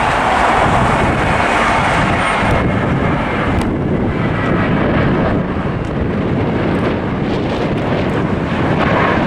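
Airbus A320-family jet airliner's engines at takeoff thrust during the takeoff roll: a loud, steady noise.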